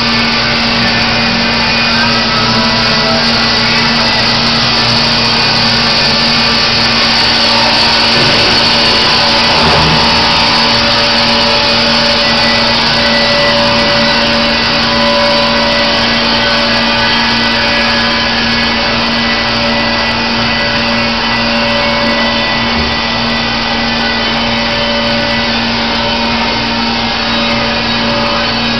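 Baker Products Super Streak band sawmill running steadily: a loud, continuous machine noise with a constant low hum.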